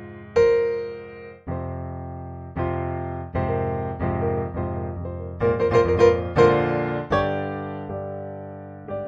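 Background solo piano music: slow chords struck about once a second, each left to ring and fade, with a quicker run of notes around the middle.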